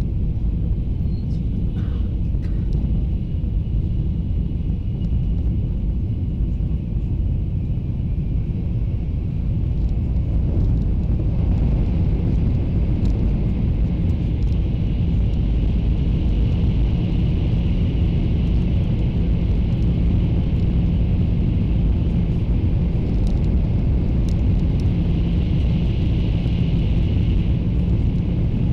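Taiwan High Speed Rail train running at high speed, heard from inside the passenger car: a steady low rumble. It grows a little louder about ten seconds in, and a faint high whine comes and goes over it.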